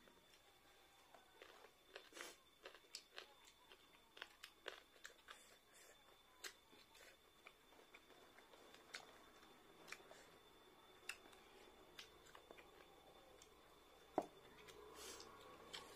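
Faint sounds of two people eating rice and chicken curry with their hands: chewing and lip smacks with small scattered clicks, and one sharper click near the end.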